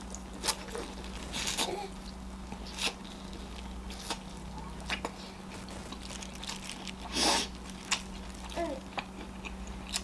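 Close-miked eating sounds: scattered bites, chewing and wet mouth clicks from someone eating a saucy seafood boil, with a louder noisy burst about seven seconds in. A steady low electrical hum runs underneath.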